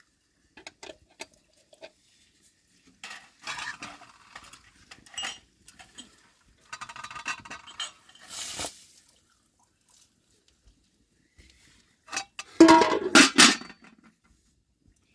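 Dishes and pots clinking and clattering as they are handled, in scattered short knocks, with a louder clatter near the end.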